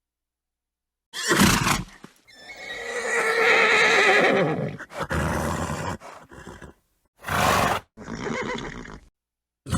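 A horse neighing and snorting: a short snort just after a second in, then one long wavering whinny lasting a few seconds, followed by two more short snorts near the end.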